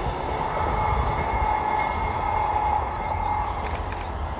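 Distant modern passenger train running over a stone viaduct: a steady rumble with a faint hum that fades as the train moves away. A few brief clicks near the end.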